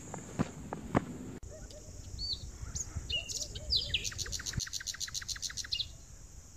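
Footsteps on a dry dirt trail over a steady high insect drone, then after a cut a bird calling: a few separate chirps followed by a fast trill of repeated notes, about eight a second, that ends near the end.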